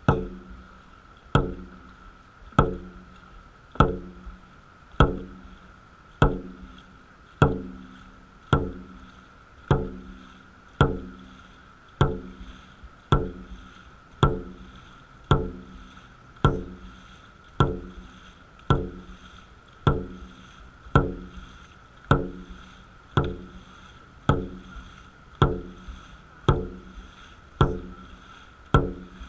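Dragon boat drum beaten at a steady pace, about one beat every 1.2 seconds, each stroke ringing briefly; the drumbeat sets the paddlers' stroke rate.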